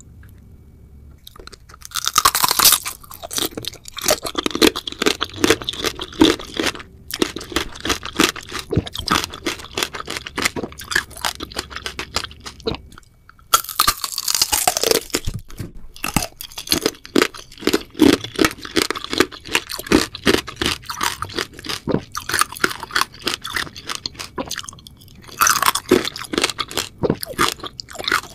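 Close-miked eating of glossy jelly candies. There are crunchy bites about two seconds in, near the middle and near the end. Each is followed by a long run of chewing full of small crackles and clicks.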